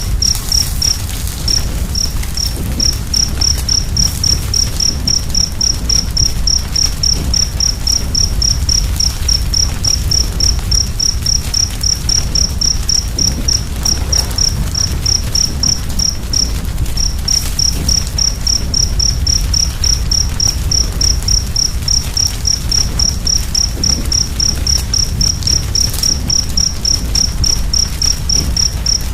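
Cricket chirping steadily in an even, high-pitched rhythm of about four chirps a second, with a short break about halfway through, over the low rumble and occasional faint crackles of a wood fire.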